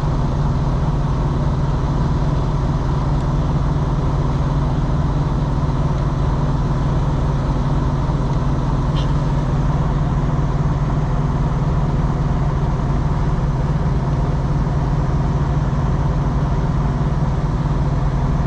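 Steady low drone of an idling engine, even and unchanging, with one faint tick about halfway through.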